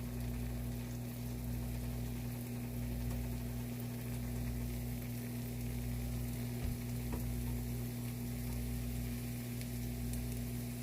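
Pancake batter sizzling steadily in hot oil in a frying pan, over a steady low hum, with a couple of faint clicks about two-thirds of the way through.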